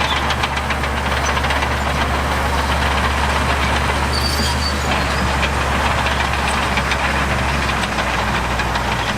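Heavy diesel engine of earthmoving machinery running steadily and loudly, with a fast, dense clatter over a deep engine note. The low note shifts near the end.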